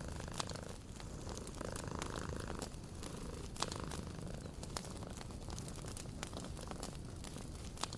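A cat purring steadily, with a wood fire crackling in sharp, irregular pops.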